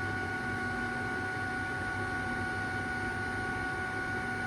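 Inverter-driven spindle drive of an oil country lathe running in its low gear range at about 7 to 9 RPM: a steady electric whine of several held tones over a low motor hum.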